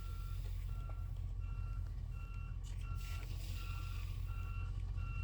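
Truck back-up alarms beeping, one steady beep about every 0.7 s joined about a second and a half in by a second, higher-pitched alarm beeping out of step with it, over the steady low rumble of an idling diesel engine.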